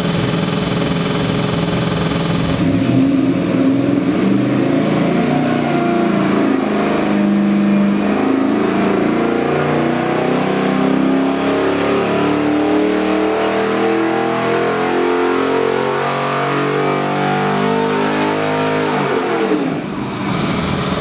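441-cubic-inch LS7-based V8 crate engine running steadily with a high whine, then pulled up through its rev range under load, its pitch climbing slowly for about sixteen seconds, until the throttle closes and the revs fall away near the end. The long, even climb is typical of a power run on an engine dynamometer.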